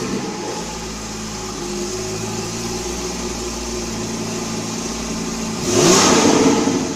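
Porsche Cayman GT4's flat-six engine just after start-up, running at a steady idle, then one quick rev rising and falling back about six seconds in, the loudest moment.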